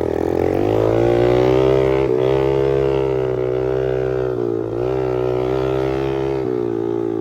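Pit bike engine revving hard during a race, its pitch dipping and climbing again about three times as the rider backs off and gets back on the throttle.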